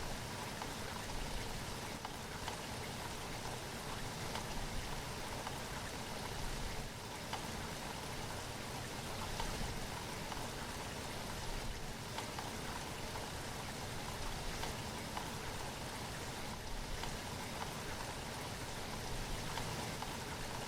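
Steady rain falling, with individual drops heard as faint ticks scattered through it.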